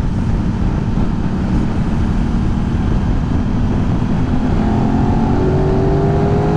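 Aprilia 660 parallel-twin motorcycle engine under way, mixed with heavy wind rush on the rider's microphone; from about four and a half seconds in its pitch climbs slowly as the bike accelerates.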